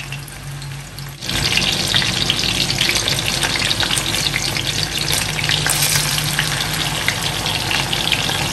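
Chopped onions sizzling and crackling in hot palm oil, the frying jumping louder about a second in and then holding steady, while a wooden spoon stirs them.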